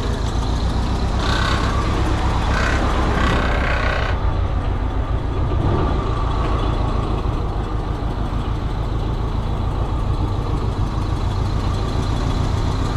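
Heavy equipment engine running steadily with a low drone, while a load is slid into place. A few brief higher-pitched swells rise over it in the first four seconds.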